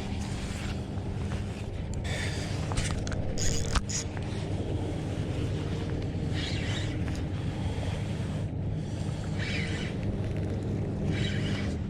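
Wind buffeting the microphone over water lapping around a kayak, with several short hissy splashes and a couple of sharp clicks.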